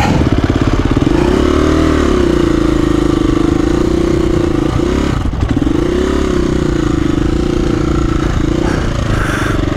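KTM 350 EXC-F single-cylinder four-stroke dirt bike engine running under load on a rocky hill climb, revving up and falling back twice.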